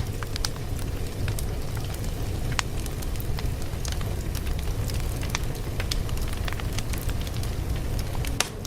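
Wood fire crackling: a steady low rumble of flames with irregular sharp pops and snaps scattered throughout.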